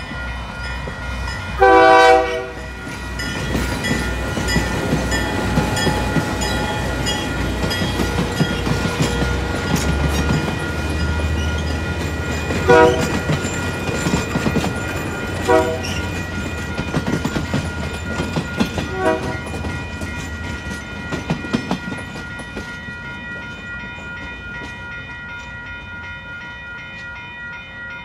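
Napa Valley Wine Train passing a grade crossing whose bell rings steadily throughout. One loud horn blast comes about two seconds in, then the diesel locomotive's low throb, then the passenger cars rolling by with wheel clatter. Three short toots sound later, and the train noise fades near the end.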